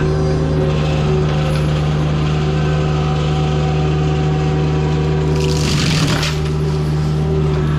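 Heavy land-clearing machine's diesel engine running steadily under load, with a brief rushing burst of noise about six seconds in.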